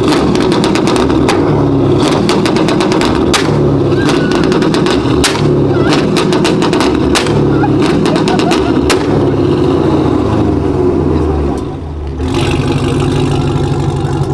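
2019 Camaro SS's 6.2-litre LT1 V8 running loud at steady revs through a straight-piped exhaust with long-tube headers, an X-pipe and no mufflers or secondary cats. A string of sharp pops and cracks runs through it for the first nine seconds or so. The sound dips briefly near the end, then picks back up.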